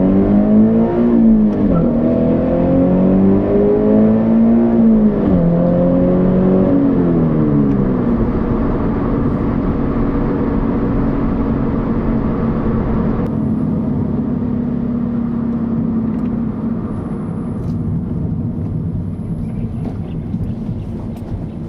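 Flat-four engine of a Subaru BRZ / Scion FR-S / Toyota GT86 with a Borla 11839 axle-back exhaust, heard inside the cabin while driving. It revs up through two gear changes, its pitch climbing and dropping at each shift, then eases off. It then holds a steady note while cruising, and near the end fades under road noise.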